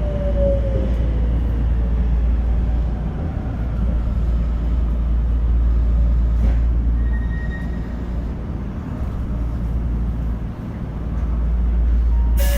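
Tokyo Metro 02 series subway train running: a steady low rumble of wheels on rail, with a motor whine falling in pitch near the start. A sudden, louder sound cuts in right at the end.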